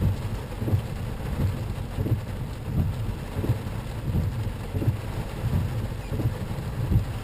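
Low steady rumble of a vehicle in motion, with a regular soft thump about every 0.7 seconds.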